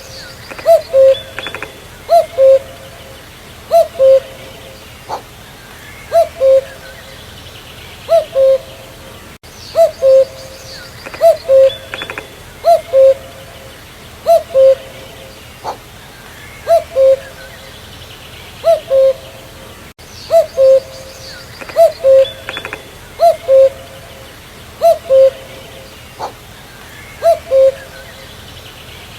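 Common cuckoo (Cuculus canorus) calling its two-note "cu-coo", a higher note falling to a lower one, repeated steadily about every one and a half seconds. Faint chirps of other birds lie underneath.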